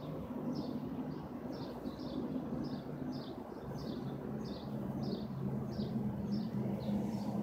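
A small bird chirping over and over, about two short chirps a second, fading out near the end, over a steady low hum.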